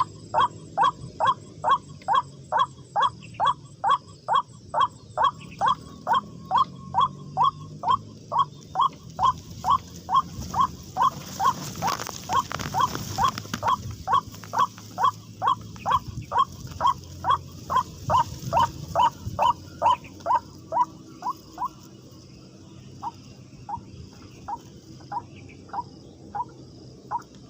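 White-breasted waterhen calls, a short note repeated monotonously about twice a second, then slowing to about once a second and growing quieter a little past two-thirds of the way through.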